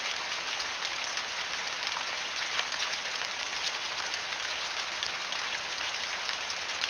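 AI-generated rain sound, made with AudioLDM2: steady rain falling, an even hiss scattered with small droplet ticks.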